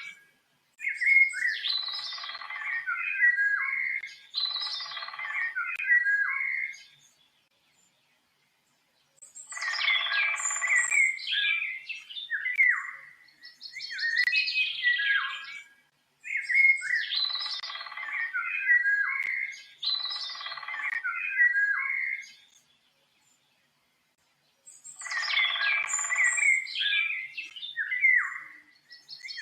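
A songbird singing rich, warbled phrases two to three seconds long, one after another, with notes sweeping up and down. The phrases are separated by short breaks, with two longer pauses of a second or two, about a third of the way in and again near the end.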